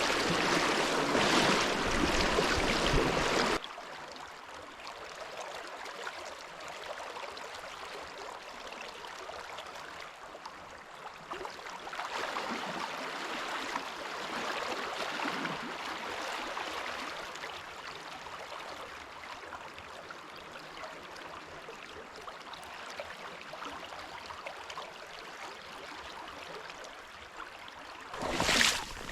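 Running stream water, loud at first, then after a sudden drop a softer, steady rush. A short louder noise near the end.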